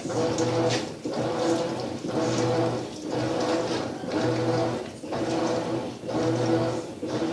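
Maytag washing machine agitating a load in water: the motor hums through each stroke and drops out briefly as the drive reverses, about once a second, with water swishing against the clothes.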